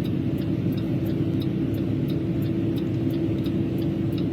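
Steady low rumble of a vehicle with a constant hum, and faint ticking about three times a second.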